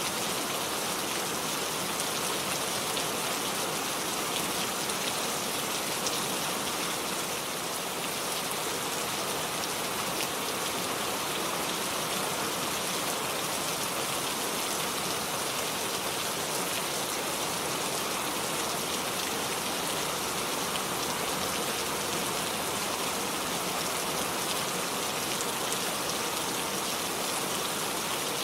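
Steady rain falling and pattering on surfaces, a dense even hiss with many fine drop impacts.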